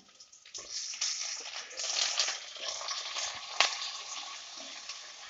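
Raw chicken pieces dropped into hot ghee and onions in a clay pot, sizzling unevenly, with one sharp knock about three and a half seconds in.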